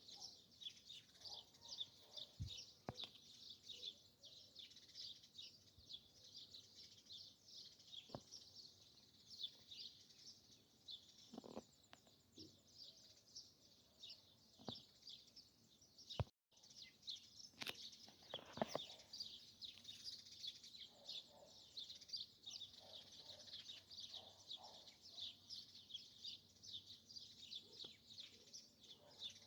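Faint, dense chorus of small birds chirping, many short high notes overlapping without a break. There are a few soft knocks, and the sound cuts out briefly about sixteen seconds in.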